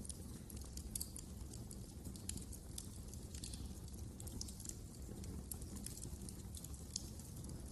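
Wood fire crackling in a fireplace: many small, irregular sharp pops and snaps over a low steady rumble of the burning.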